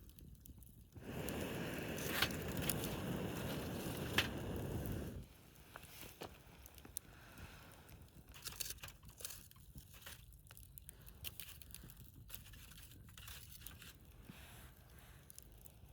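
Burning firewood crackling with scattered sharp pops. A loud rushing noise starts suddenly about a second in and cuts off about five seconds in.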